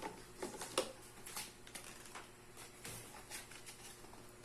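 Light, irregular taps and clicks of small plastic toy pieces being handled, faint and scattered.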